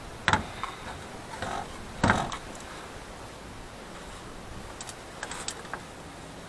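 A few sharp mechanical clicks and knocks: one shortly after the start, the loudest about two seconds in, and a quick run of small clicks about five seconds in. There is no engine cranking or running.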